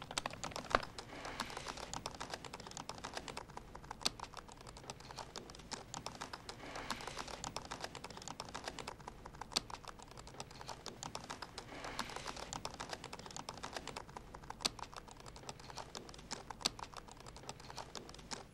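Fast typing on a laptop keyboard: a steady stream of key clicks with a few louder taps here and there. The typing stops right at the end.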